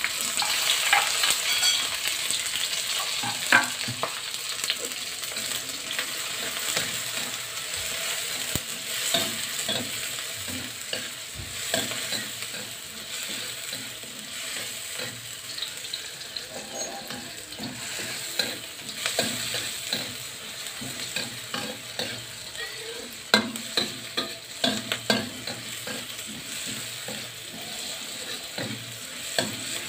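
Chopped chillies, shallots, garlic, galangal and tomato sizzling in hot oil in a wok, with a metal spatula scraping and knocking against the pan as they are stirred. The sizzle is loudest just as the ingredients go in, then settles to a steady frying hiss as the spice base cooks.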